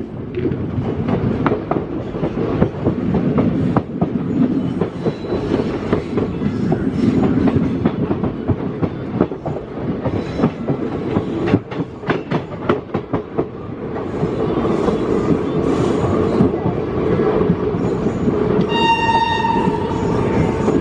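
Wheels of Indian Railways passenger coaches running over the rails, with a steady rumble and repeated clickety-clack over the rail joints, growing louder about two-thirds of the way through. Near the end a train horn sounds once, for about a second.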